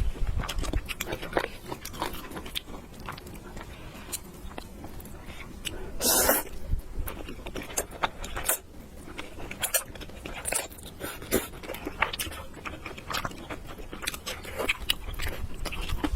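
Close-miked eating: chewing and mouth smacks of someone eating noodles, many small wet clicks, with a louder noisy burst about six seconds in.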